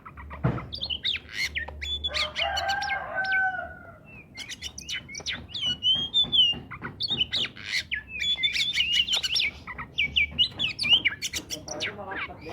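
Oriental magpie-robin singing a loud, varied song of rapid whistled notes, slurs and trills. A lower, drawn-out call comes in about two seconds in, and there is a single knock just before the song starts.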